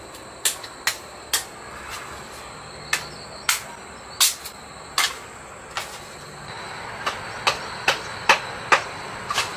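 A series of sharp knocks at an uneven pace, about one to two a second, coming a little quicker near the end.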